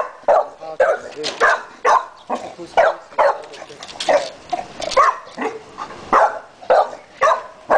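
A dog barking over and over, in short sharp barks at about two a second.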